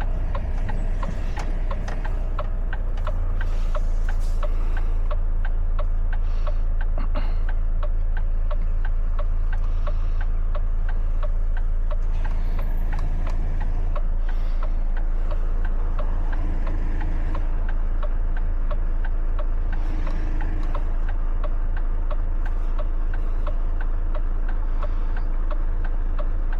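Truck diesel engine running with a low, steady hum in the cab, under a regular ticking about twice a second from the turn-signal indicator.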